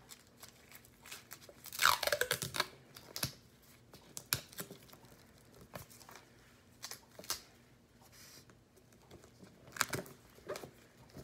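Adhesive medical tape pulled off its roll and torn, loudest about two seconds in, then small crinkles and taps as it is pressed over gauze, with another short burst of tearing near the end.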